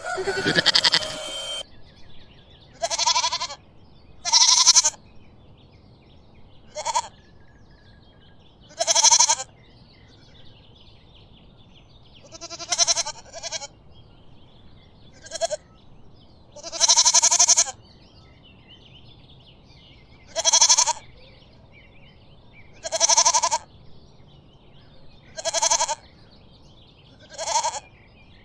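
Goats bleating: about a dozen separate bleats, each brief and a couple of seconds apart. The first second or so is taken up by a louder, noisier sound carried over from before.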